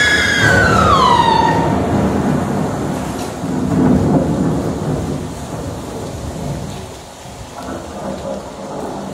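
A stage thunder sound effect: a long rolling rumble that swells a second time about four seconds in, then fades. It opens with a high, falling cry over the first couple of seconds.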